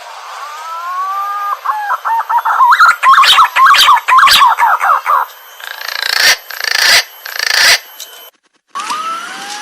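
Green pigeon (punai) whistling: a few mellow notes that rise in pitch, then a quick run of wavering, warbling whistles. The calls break off abruptly about eight and a half seconds in and start again with another rising note.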